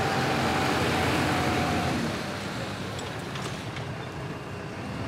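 Tractor engine running as the tractor's rear scraper drags old feed along the floor, with a high whine that is louder for the first couple of seconds and then fades, and a few light clicks near the middle.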